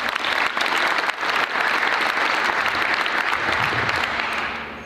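Audience applauding, a burst of clapping that fades away near the end.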